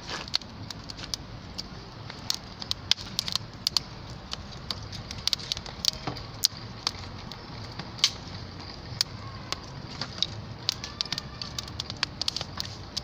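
Small wood fire of sticks crackling in a grill, with many irregular sharp snaps over a low steady rush.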